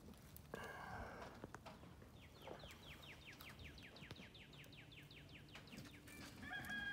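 Faint bird song: a trill of about twenty quick downslurred notes, roughly six a second, lasting about three seconds in the middle, over quiet outdoor background.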